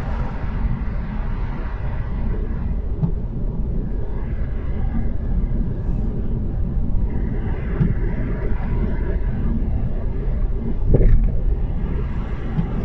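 Steady low rumble of a car's road and tyre noise heard from inside the cabin while driving at about 60 km/h on a snow-covered road, with a brief louder bump near the end.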